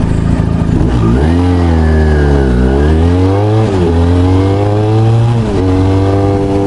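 Sportbike engine idling, then pulling away: the revs climb about a second in, ease off and climb again, and drop sharply twice as it shifts up, then rise slowly as the bike gathers speed.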